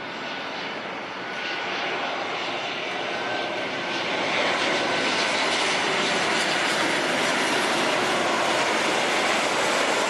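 Jet engine noise from a Boeing 737-800's CFM56 turbofans on final approach. It grows louder over the first few seconds, then holds at a steady peak.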